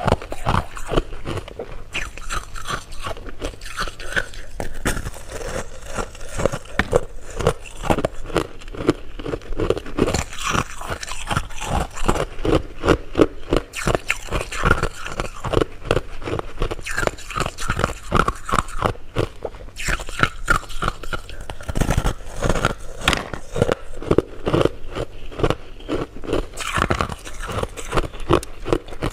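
Close-miked eating of sweets: continuous rapid chewing and crunching of candy, with many small crunches a second and no pauses.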